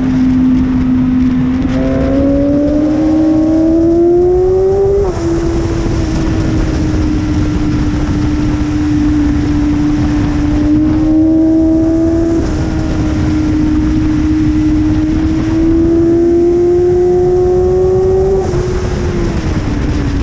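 BMW S1000RR's inline-four engine running hard on track under a heavy rushing noise. Its pitch climbs slowly and dips slightly at gear changes about 5 and 12 seconds in. It then falls steadily near the end as the bike slows.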